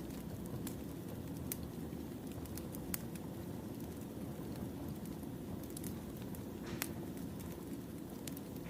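Firewood burning in a campfire: a steady low rush with irregular sharp crackles and pops scattered through it.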